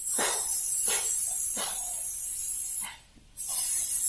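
Aerosol spray-paint can spraying paint in a steady hiss for about three seconds, a short break, then a second spray near the end.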